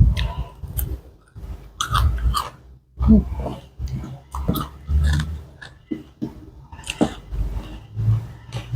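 A person chewing food close to the microphone, with irregular wet smacking clicks.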